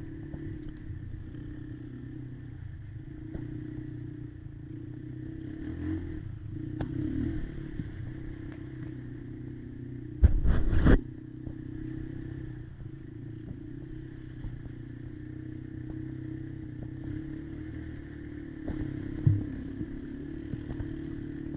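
Kymco Maxxer 300 quad's engine running steadily at low speed. About ten seconds in there is a loud knock that lasts under a second, and there are a couple of smaller knocks near the end.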